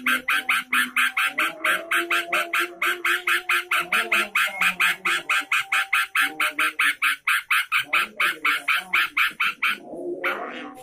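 Trucukan, a bulbul, singing a long, rapid run of harsh chattering notes, about five a second, over fainter lower bird calls; the run stops about ten seconds in.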